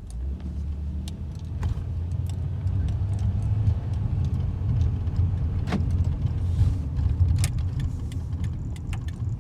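Chrysler 2.7-litre V6 of a 1999 Dodge Intrepid pulling hard under heavy throttle, heard from inside the cabin, getting louder over the first few seconds. Light jingling and clicks from keys run through it.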